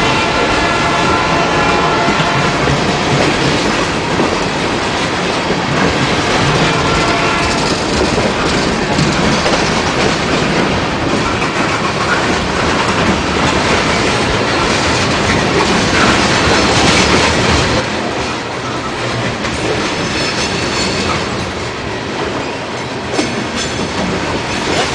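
Train passing at close range, its cars' wheels clicking over the rail joints in a loud, steady rumble that eases somewhat near the end.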